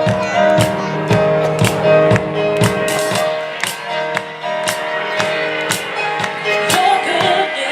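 Live gospel band playing an instrumental intro: held piano chords over a steady drum beat.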